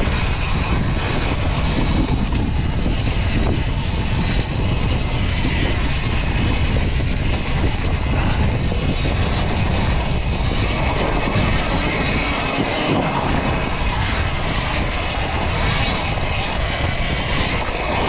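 Sur-Ron Ultra Bee electric dirt bike ridden off-road on a trail: a steady, loud rush of wind and tyre noise, with no engine note.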